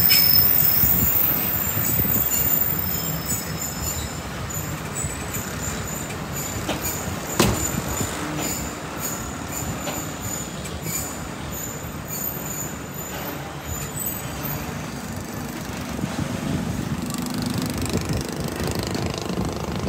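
Passenger train running round a curve, heard from an open coach door: steady running noise of the wheels on the rails, with a high wheel squeal that is strongest in the first few seconds and then dies down. A single sharp knock comes about seven seconds in.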